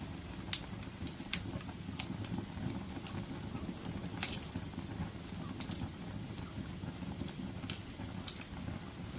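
Wood fire crackling: sharp pops scattered every second or so over a steady low rumble. The loudest pop comes about half a second in, and another strong one just after four seconds.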